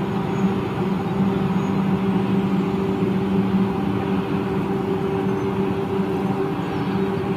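Eurostar (Class 373) electric trainset moving slowly past, a steady hum with a few held tones.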